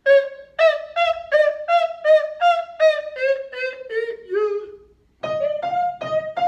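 Soprano singing a quick run of short, detached notes, about three a second, that slowly step down in pitch. After a brief break, piano chords come in under repeated sung notes.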